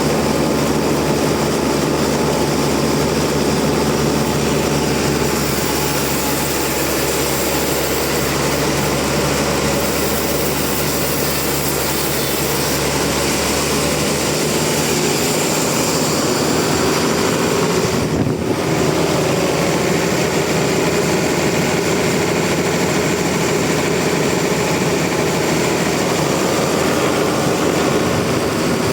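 Sawmill machinery running steadily and loudly, a continuous mechanical drone with a short dip about two thirds of the way through.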